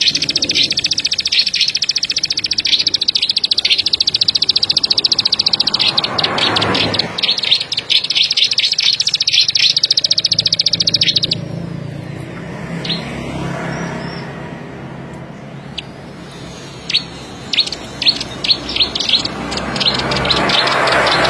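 Ciblek sawah, a small paddy-field prinia, singing a fast, high trill of rapidly repeated notes for about eleven seconds. It then breaks off into a few scattered notes over a low hum, and picks up again near the end with separate sharp notes several a second.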